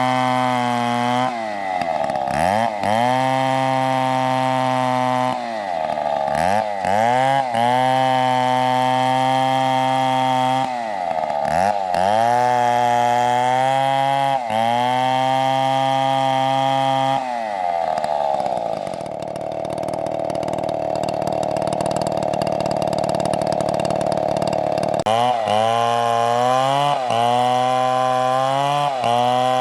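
STIHL two-stroke chainsaw running at high revs, its pitch dipping and climbing back several times as the throttle is eased and opened again. About two-thirds of the way through, the steady note gives way to a rougher, noisier sound for several seconds before the clean revving returns.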